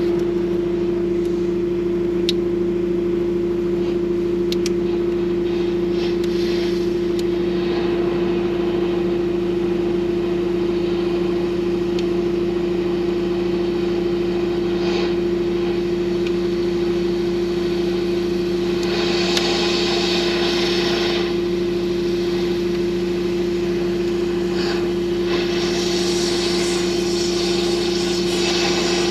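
An engine running steadily at an even pitch, with stretches of hissing about two-thirds of the way in and again near the end, and a few light clicks.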